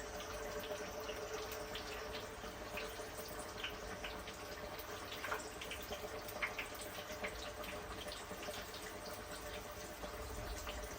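Water running and dripping, with a steady low hum and scattered small ticks.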